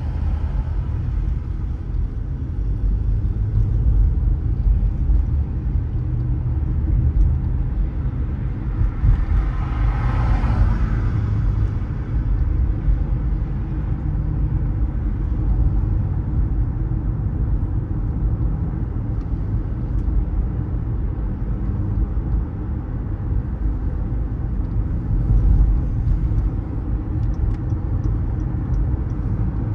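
A car driving through city traffic: a steady low road and engine rumble, with a brief swell in the sound about ten seconds in.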